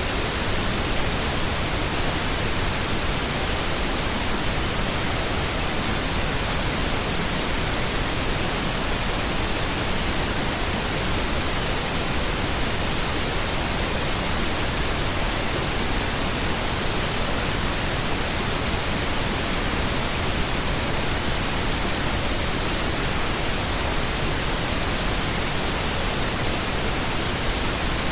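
Steady pink noise: an even, unchanging hiss spread across all pitches, used as a sleep and focus sound.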